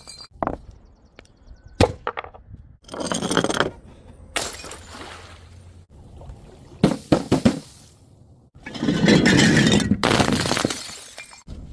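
Glass bottles knocking, clinking and shattering in a series of separate impacts. The loudest is a long crash of breaking glass from about three-quarters of the way in until shortly before the end.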